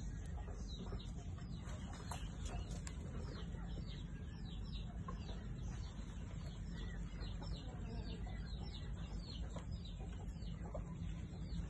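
Small birds chirping continuously: many short, high, falling notes, several a second, over a steady low background rumble.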